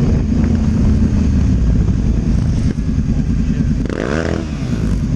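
Motorcycle engine running on the road, a steady low rumble, with a brief rising-and-falling tone about four seconds in.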